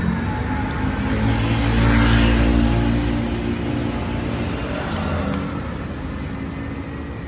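Motor vehicle engine rumble, swelling to its loudest about two seconds in and then slowly easing off.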